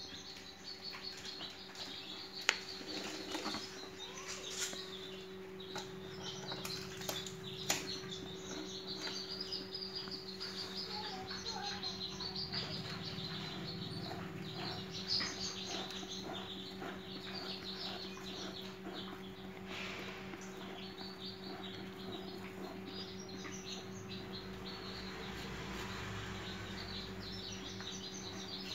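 Small birds chirping continuously over a steady low hum, with a couple of sharp clicks from eggshells being handled as the eggs are turned by hand.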